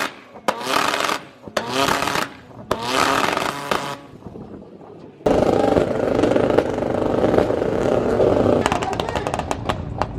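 Car engines at a two-step battle: a few short bursts of revving in the first four seconds, then from about five seconds one engine held steadily at high revs on a two-step launch limiter, breaking into a rapid run of sharp exhaust pops near the end.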